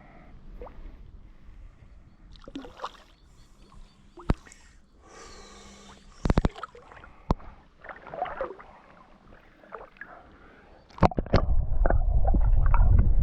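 Canoe on the water: gurgling and sloshing against the hull, with a few sharp knocks. About eleven seconds in, wind buffeting the microphone sets in and becomes the loudest sound.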